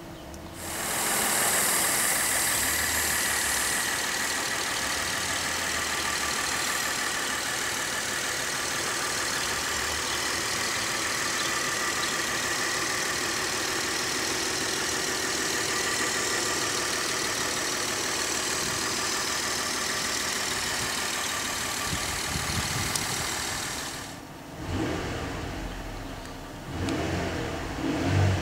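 Ford Taurus SHO's 3.5-litre twin-turbocharged EcoBoost V6 starting about a second in and settling into a steady idle. Near the end the throttle is blipped twice, the revs rising to about 2,000 rpm.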